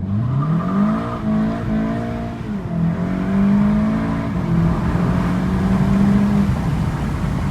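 Golf GTI TCR's 2.0-litre turbocharged four-cylinder under hard acceleration: the engine note climbs steeply over the first second, dips briefly about three seconds in, then holds high for several seconds.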